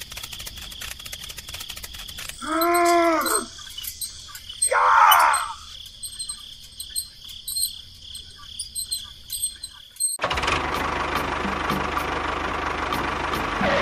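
A steady high chirring with fast clicking, like crickets, with a short sound that rises and falls in pitch about three seconds in and a brief scrape-like burst about five seconds in. About ten seconds in, a tractor engine starts running steadily, louder than what came before.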